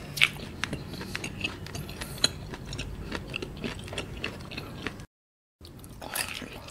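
Close-miked eating of grilled squid: wet mouth clicks and smacks of chewing, with a fresh bite into the squid piece near the end. The sound drops out completely for about half a second just after five seconds in.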